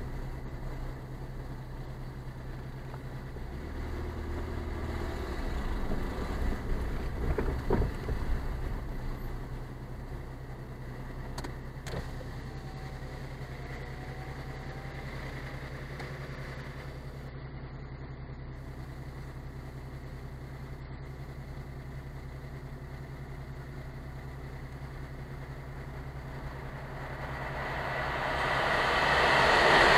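Car engine running as the car rolls slowly up and stops, then idling steadily, heard from inside the car. Near the end an approaching freight train grows quickly louder.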